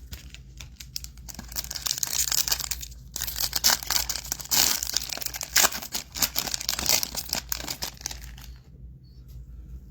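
Foil wrapper of a Topps Chrome football card pack being torn open and crinkled, a dense crackling run with a brief pause partway through, stopping near the end.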